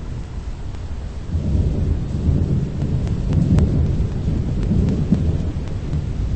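Deep, rolling rumble of thunder that swells about a second in and carries on, with a few sharp ticks over it.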